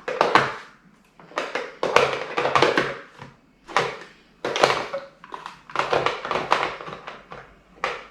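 Plastic parts of a cordless stick vacuum being handled and fitted together: a string of irregular knocks, clicks and rustles with short pauses between them.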